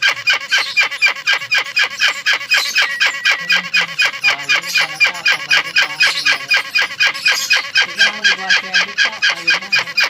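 Young hornbills calling without a break: a fast series of short, nasal, honk-like calls at about five a second.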